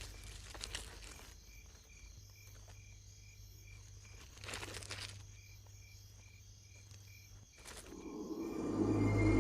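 Quiet field ambience with a faint insect chirping at a steady rate of about two chirps a second, and a few brief rustles and scrapes. Soundtrack music swells up near the end.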